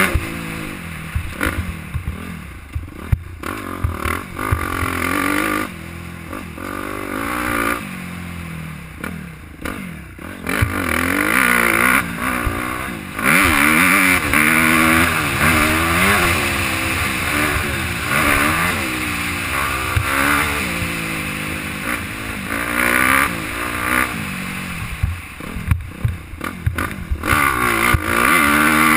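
Suzuki dirt bike engine being ridden hard on a dirt track, its pitch rising and falling again and again as the throttle is opened and shut and the gears change, heard from a helmet-mounted camera. A loud rushing noise comes over it about halfway through and again near the end.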